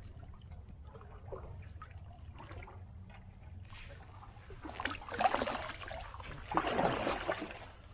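Paddle dipping and pulling through calm creek water: light drips and trickling, then two louder splashing strokes in the second half.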